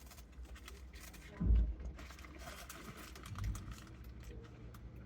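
Handling noise of food and its container being moved: faint rustling and small clicks, with a dull low thump about a second and a half in and a softer one near three and a half seconds.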